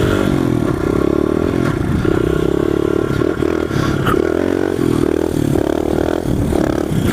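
Honda XR100 pit bike's single-cylinder four-stroke engine revving under load as the rider pulls a wheelie, the pitch repeatedly rising and dipping as the throttle is worked.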